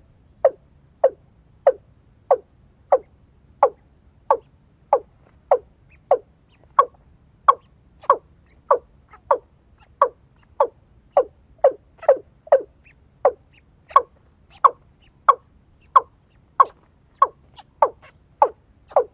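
A bird's short call repeated at a very even pace, about three calls every two seconds, each a quick falling note.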